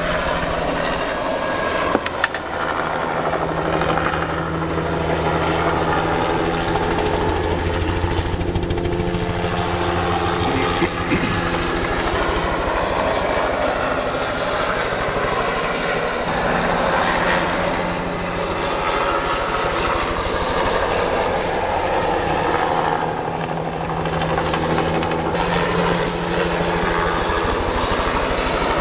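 Spray helicopter flying over the tract, its rotor beat and engine running steadily throughout.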